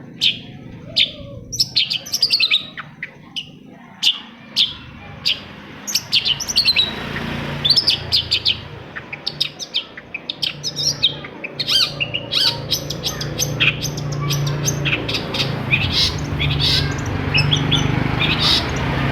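Long-tailed shrike (cendet) singing a fast run of sharp, repeated chirps and short trills. A steady low hum joins about a third of the way in.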